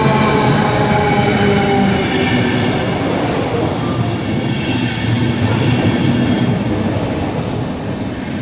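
Train running at a station platform: a steady rumble with a pitched whine from its engine and running gear, dropping a little in pitch in the first couple of seconds.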